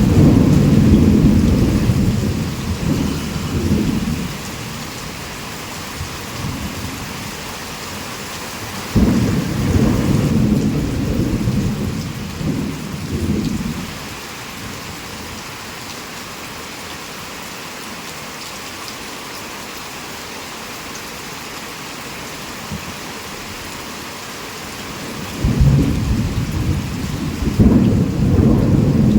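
Heavy rain falling steadily, with rolls of thunder: a rumble dying away at the start, a sudden clap about nine seconds in that rumbles on for several seconds, and another rumble starting near the end.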